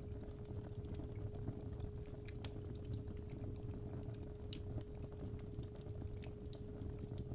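Fireplace fire crackling, with irregular small pops over a low rumble, under a steady pure 417 Hz tone.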